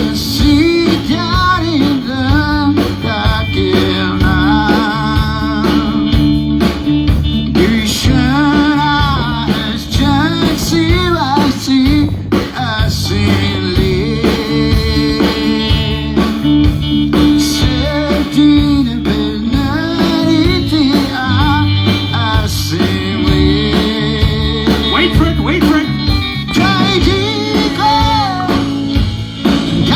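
Live band playing a blues-rock song: guitar and bass over a drum beat, with singing.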